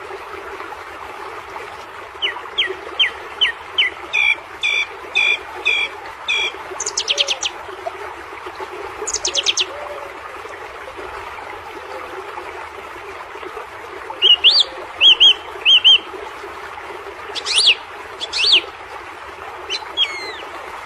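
Small birds chirping: runs of short, sharp, repeated notes, with a pause in the middle, over a steady background hiss.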